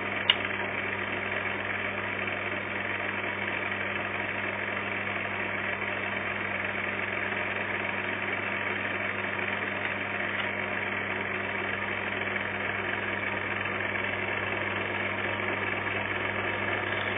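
Microwave oven running with a 40-watt lightbulb inside: a steady hum with fan noise that does not change. A single sharp click about a third of a second in.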